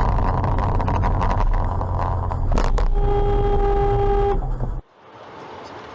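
Car driving with a loud low rumble of engine and road noise and a sharp knock, then a car horn sounds once, held steady for about a second and a half. Near the end the sound cuts off abruptly to a much quieter background hiss.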